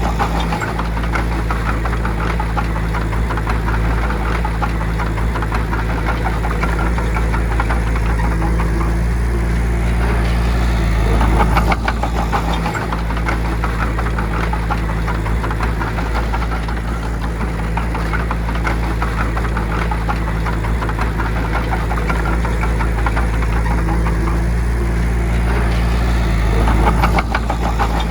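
Bulldozer's diesel engine running under load with a fast, steady clatter, swelling louder about eleven seconds in and again near the end.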